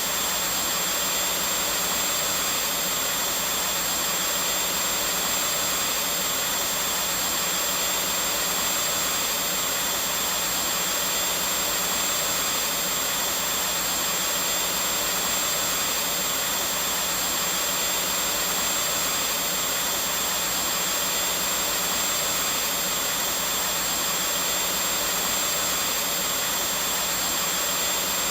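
Vacuum cleaner running steadily, a constant whooshing motor-and-airflow noise with a thin high whine held throughout.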